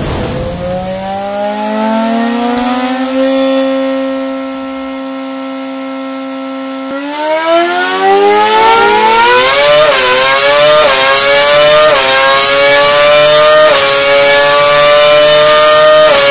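Renault Formula One racing engine on test, revving up and holding a steady high note for a few seconds, then climbing in pitch again. The climb is broken by several short dips in pitch, each followed by a fresh rise, like a run of upshifts.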